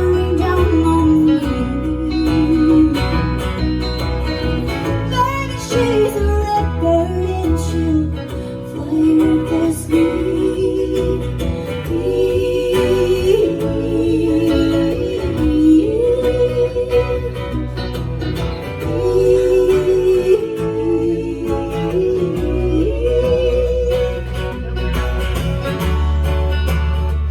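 Live acoustic country band music: guitar and bass under a wavering melody line that rises and falls in short phrases.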